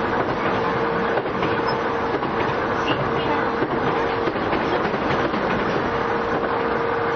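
Running sound inside a JR East E233 series 5000-subseries electric commuter train at speed: a steady rumble of wheels on rail with occasional faint clicks, and a steady hum that breaks off and returns a few times.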